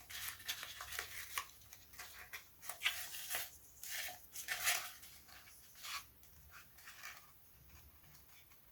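Light handling noises at a workbench as model-plane parts are pressed and rubbed into place: irregular soft scuffs and rubs that die away near the end.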